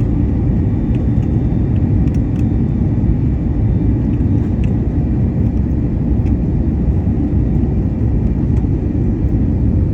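Airliner landing: a loud, steady, deep rumble with a faint steady whine above it.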